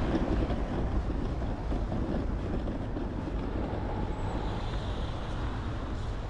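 Steady outdoor noise, strongest in the low end: wind on the microphone mixed with street traffic.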